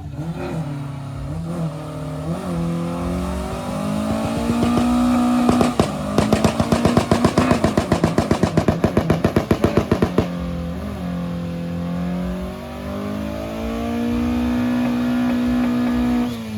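A car engine revved hard over and over, the pitch climbing and falling; during a long high-rev hold in the middle it sounds a fast run of sharp bangs, about five a second, before dropping back and revving up again.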